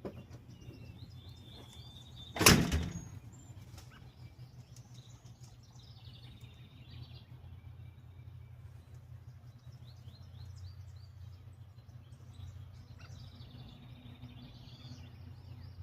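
Small birds chirping and twittering over a steady low rumble of background noise, with one loud sudden thump about two and a half seconds in.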